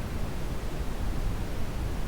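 Brown noise: a steady, unchanging rush of deep noise, strongest in the low end and fading toward the highs.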